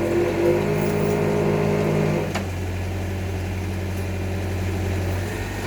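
Engine-driven hydraulic pile-pressing machine running steadily, pressing a concrete pile. A higher-pitched whine over the low engine hum stops with a click a little over two seconds in, and the low hum carries on.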